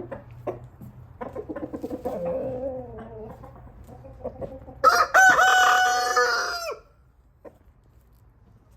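Chickens clucking, then a rooster crows loud and close about five seconds in: one long crow of about two seconds that drops in pitch at the end.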